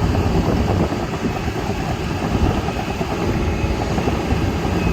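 A heavy machine's diesel engine running steadily, a deep, even engine noise with no pauses.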